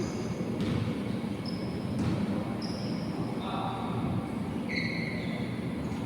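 Basketball shoes squeaking on a court floor about eight times in short, high-pitched chirps, with a ball bouncing a couple of times, over a steady rumble of gym noise.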